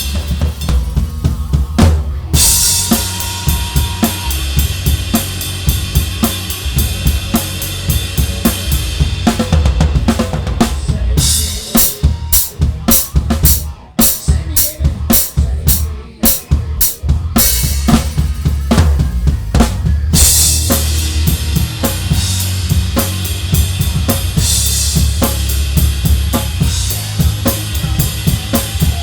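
Live band heard close to the drum kit: kick, snare and cymbals play a steady beat over a bass guitar line. About eleven seconds in the cymbal wash drops out and the drums play sparser, separate hits, and the cymbals come back in about twenty seconds in.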